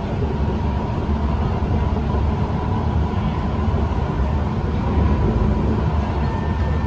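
Interior running noise of a Kawasaki C151 MRT train in motion: a steady low rumble of wheels on track and car body, with a faint steady whine.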